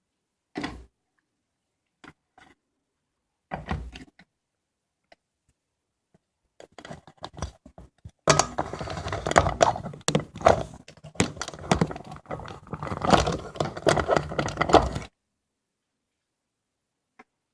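Two single knocks, then about seven seconds of dense, irregular metallic clattering and rattling that stops abruptly: handling of the vintage Ruton fan's metal parts.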